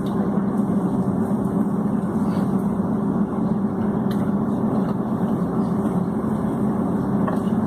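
Steady cabin drone of a Boeing 757 airliner with its jet engines running at low power on the ground: a constant hum under an even rush of air noise.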